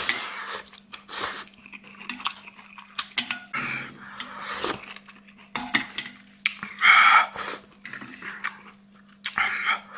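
Close-up eating sounds: irregular chewing and slurping of spicy noodles and tofu skin, with occasional clicks of utensils against a bowl. A faint steady hum runs underneath.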